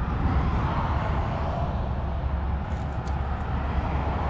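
Scania R500 truck running steadily: a low engine drone with an even noisy hiss above it.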